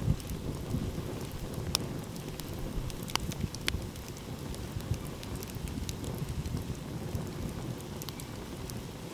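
Open wood fire crackling, with scattered sharp pops, the biggest about two, three and three and a half seconds in, over a steady low rumble.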